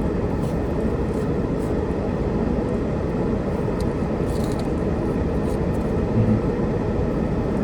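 Steady low background rumble, even throughout, with a slight bump about six seconds in.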